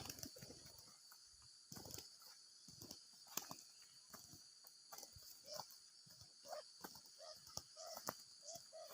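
Faint spotted dove cooing: a run of short, low coos in the second half. Under it is a steady high buzz of insects and a few sharp clicks.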